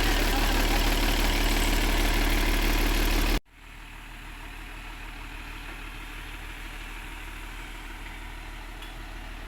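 Isuzu 6BG1 six-cylinder diesel engine idling steadily in an excavator, then the sound cuts off abruptly about three and a half seconds in, leaving a much quieter steady hum.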